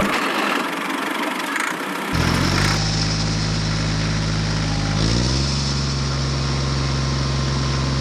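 Engine running at a steady idle, cutting in abruptly about two seconds in after a stretch of hiss-like noise, its pitch stepping up a little around five seconds in.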